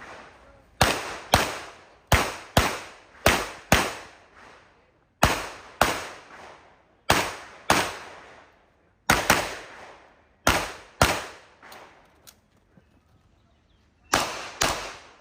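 CZ Shadow 2 pistol fired in rapid pairs of shots, the two shots of each pair about half a second apart, eight pairs in all, each report trailing off in a short echo. A quiet gap of about two seconds comes before the last pair.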